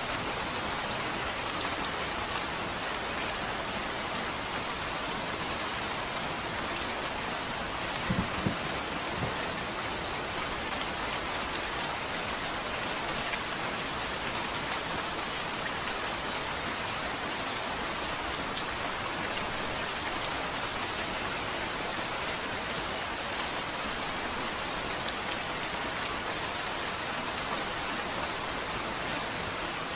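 Steady rain falling on a surface, an even hiss of drops. About eight seconds in, a brief cluster of a few louder knocks stands out.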